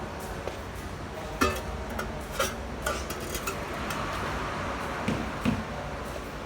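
Several scattered light clinks and knocks over a steady low background noise.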